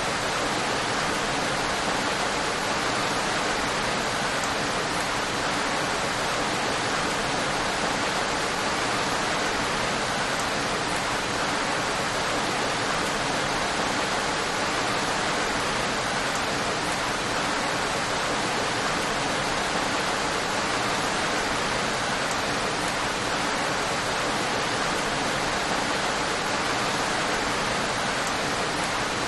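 Steady, heavy rain falling: a constant, even hiss with no distinct drops or changes.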